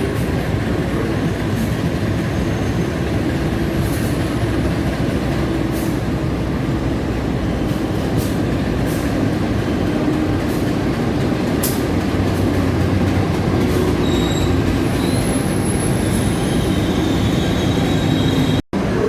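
Passenger train running slowly through a station: a steady rumble of wheels on rails with scattered sharp clicks. A thin, high wheel squeal comes in about two-thirds of the way through, and the sound drops out for a moment near the end.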